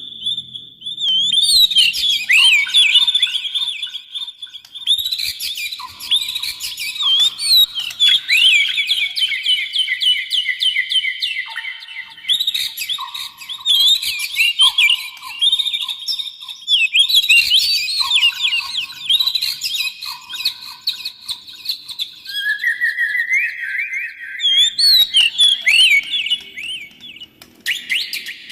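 Oriental magpie-robin and white-rumped shama singing: a continuous, rapid stream of varied chirps, trills and sweeping whistles over held, steady lower whistled notes. The song comes in phrases separated by brief pauses.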